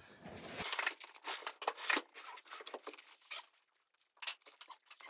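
Packaging crinkling and rustling as it is handled, a quick irregular run of small crackles and taps with a short lull near the end.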